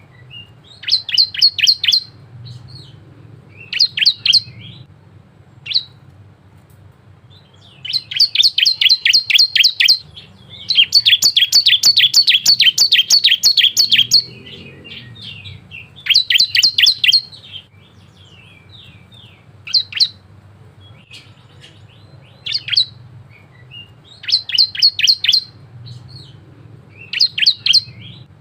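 Bar-winged prinia (ciblek) singing in repeated bouts of rapid, high chipping trills at about six notes a second, separated by short pauses and a few single notes. The longest trill runs about three seconds near the middle.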